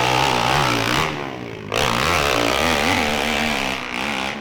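Dirt bike engine being revved, its pitch rising and falling. It eases off a little over a second in, then revs up again.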